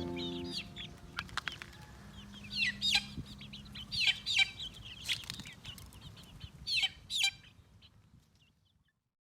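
Bantam chickens clucking in short high calls, several in quick groups, dying away about eight seconds in.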